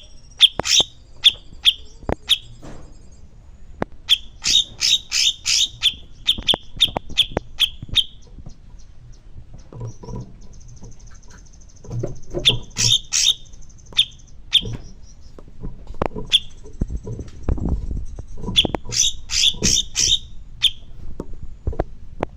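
Songbird calling in bursts of sharp, evenly spaced chirps, about two a second, with a thin high whistle held between the bursts. Dull low thumps sound through the middle.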